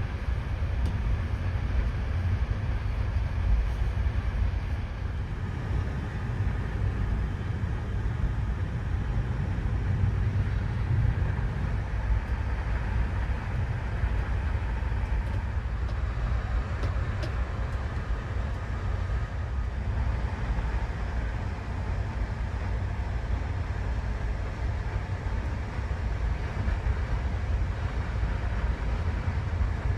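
Passenger train running: a steady low rumble with a constant haze of rolling noise.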